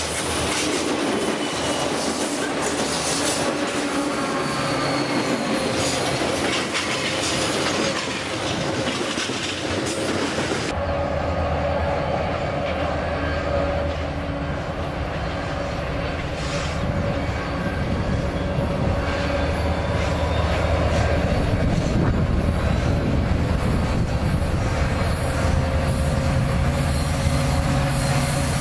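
A diesel freight train passing close by, its wheels rushing and rattling over the rails. About eleven seconds in, the sound changes abruptly to the deep engine rumble of several diesel-electric locomotives hauling a freight train on curved track, with a steady squeal from the wheels.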